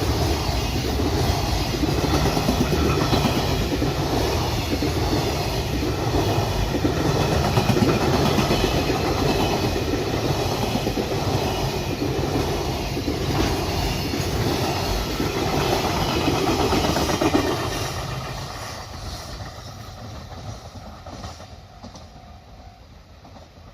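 Freight train passing, its wagons' wheels running over the rails with a steady noise that starts fading about three-quarters of the way through as the end of the train goes by.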